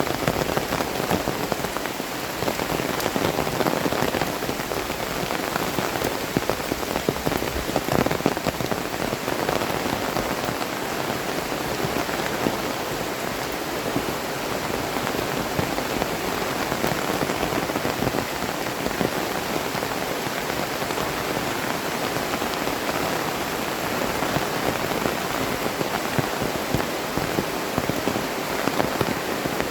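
Heavy rain falling steadily, a dense patter of drops striking close by.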